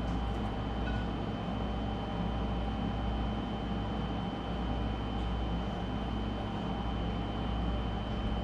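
Steady mechanical hum and low rumble, with a thin, steady high-pitched whine running over it.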